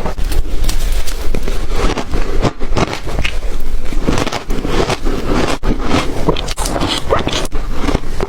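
Close-miked crunching of ice being bitten and chewed: a dense run of crackling crunches with a few sharper snaps.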